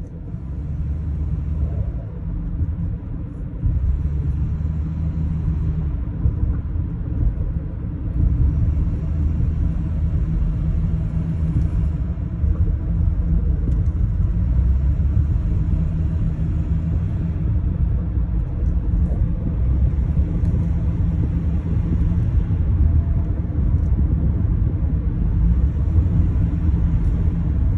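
2011 Honda Accord's 2.4-litre four-cylinder engine running with a deep, steady rumble that grows louder about four seconds in and again at eight. This is the clunk noise the owner reports at around 1600 rpm.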